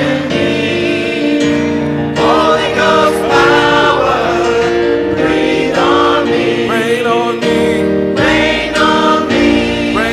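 Gospel music: a choir sings over sustained chords, with wavering, melismatic vocal lines above.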